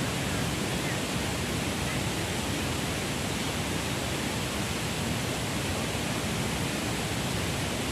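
Strong wind blowing steadily: an even rushing noise with rumbling buffeting underneath.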